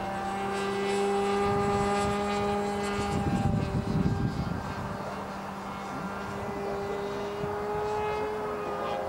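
Irvine 53 two-stroke nitro glow engine of a radio-control pylon-racer model airplane running at high revs in flight, a steady high-pitched note that shifts slightly in pitch as the plane moves. A brief low rumble about three seconds in.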